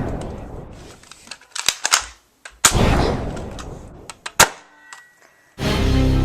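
Gunshot sound effects: two loud shots with long fading tails a little under three seconds apart, and a few quick sharp cracks between them. Music comes in near the end.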